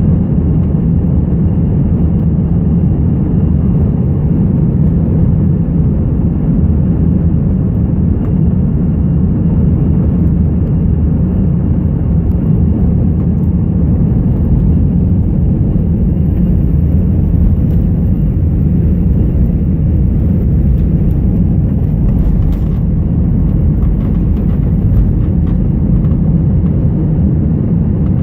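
Airliner jet engines and rushing air as a steady, loud, deep rumble heard from inside the passenger cabin during the climb after takeoff.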